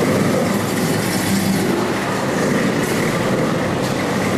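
Car engines running, a steady low mechanical sound that does not rise or fall.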